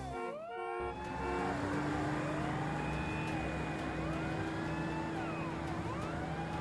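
Cartoon vehicle sound effect: an engine running steadily under repeated rising-and-falling siren-like wails, starting about a second in as a short bit of music ends.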